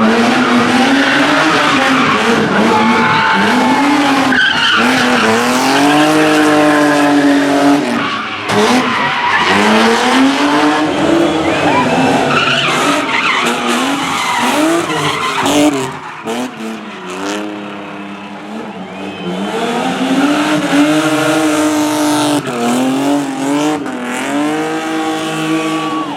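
Rally cars driven flat out, the engine note climbing hard and dropping back again and again through the gear changes, with a quieter stretch about two-thirds of the way through.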